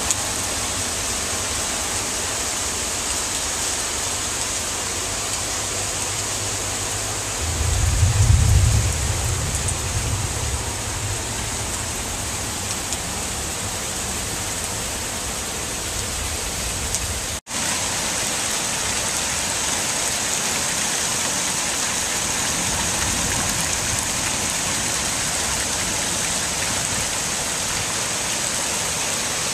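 Heavy hurricane rain pouring steadily as a continuous hiss. About eight seconds in, a deep rumble swells for a few seconds. At about seventeen seconds the sound drops out for an instant.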